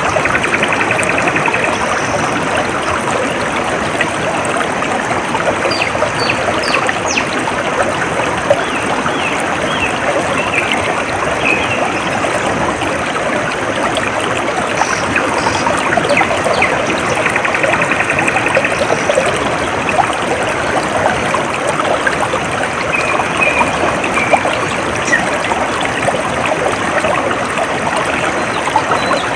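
Water trickling and splashing steadily in a small stream, with birds chirping over it and a short trill heard twice, about a second in and again past the middle.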